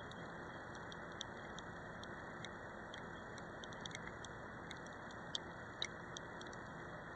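Rain falling as a steady hiss, with raindrops ticking irregularly on the harness-mounted camera's housing; two sharper taps come a little past five seconds in.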